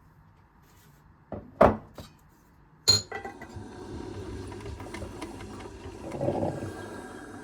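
A few knocks and one loud thud of kitchenware, then a sharp click and a small kitchen appliance starting up and running with a steady motor hum.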